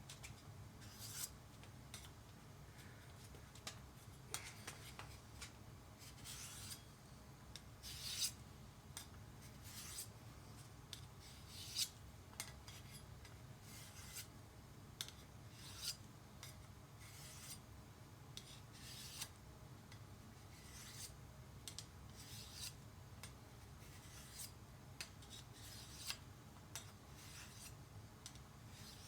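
Steel knife blade drawn across a fine sharpening stone: repeated short, faint scraping strokes at an uneven pace, a few louder than the rest.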